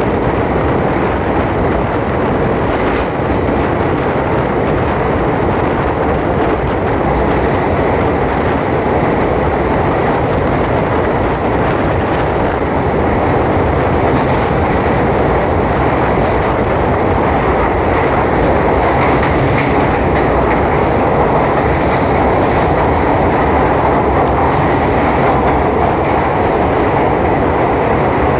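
Passenger train running on the rails: a steady, loud rumble with wheel clatter, and a faint high screech that comes and goes in the second half.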